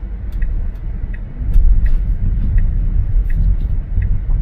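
Truck engine and road rumble heard inside the cab, steady and low, with a faint regular tick about every 0.7 seconds.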